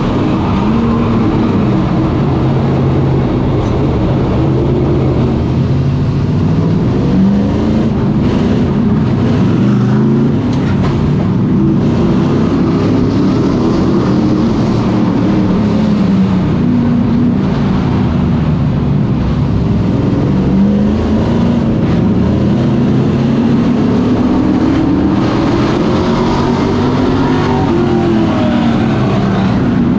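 Super Pro Truck race trucks running laps, a pack of engines at full throttle whose pitch repeatedly climbs and falls as they accelerate and lift.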